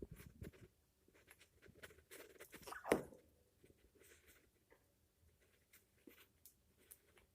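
African Grey parrot preening: quiet scattered rustles and small clicks, with a busier stretch ending in one short louder sound about three seconds in.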